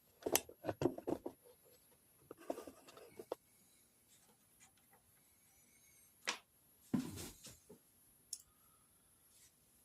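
Scattered small clicks and knocks: a quick flurry about a second in, a few more around three seconds, then a single sharp click and a duller thump a little later.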